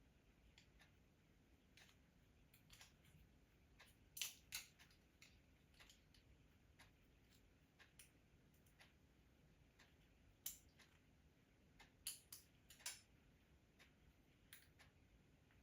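Faint, scattered small clicks and snaps from fitting hose clamps around saddle clamps on a charging cable with a pincer tool. A few sharper clicks come about four seconds in and again around ten to thirteen seconds in.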